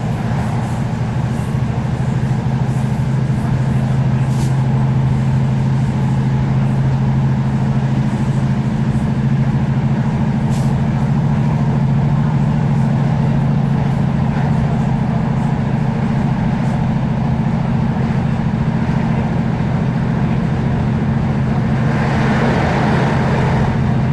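Class 156 Super Sprinter diesel multiple unit running steadily, a constant low engine drone from its Cummins diesel with running noise over it. A hissing rise in the noise comes in near the end.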